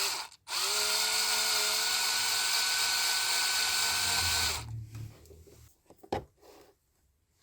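Power drill running steadily for about four seconds with an even, high whine, then stopping, followed by a few light knocks.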